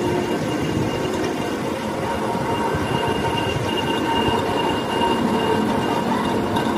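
Metalworking machine running steadily, a continuous grinding noise with a constant high whine over it.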